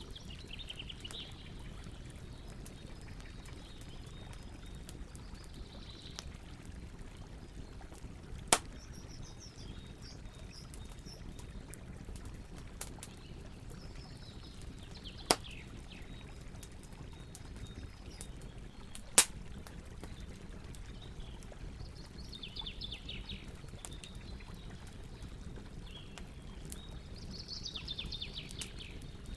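A wood campfire giving three sharp pops over the steady rush of river water, while a bird calls every few seconds in short falling trills.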